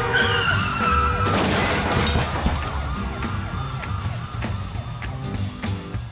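Cartoon soundtrack: background music under a quickly repeating, warbling siren-like sound effect. A falling whistle-like glide comes in the first second or so.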